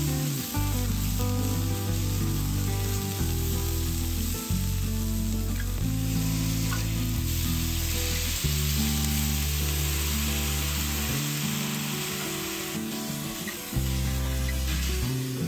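Chili, shallot and garlic paste sizzling as it is stir-fried in a hot wok, with a spatula scraping and stirring. Background music with sustained low notes plays along.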